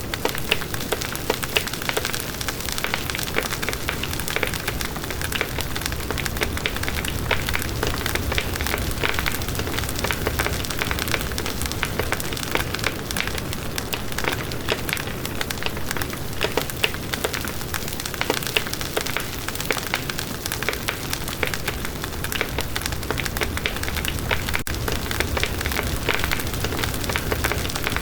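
Campfire burning steadily, wood crackling and popping over a continuous hiss.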